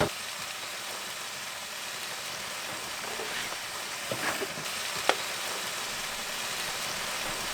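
Steak frying in a hot pan: a steady sizzle, with a few sharp pops about four and five seconds in.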